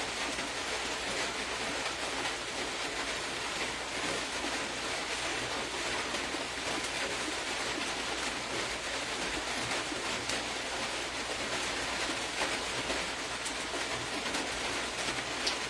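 Steady background hiss with a few faint scattered ticks.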